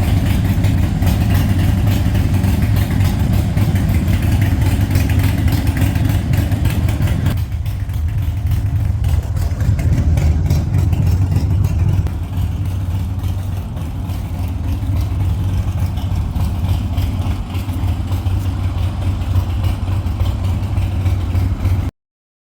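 Motorcycle engine running on the road, with wind rushing over the microphone. About seven seconds in, the rushing noise drops suddenly while the low engine drone carries on, and the sound cuts off suddenly near the end.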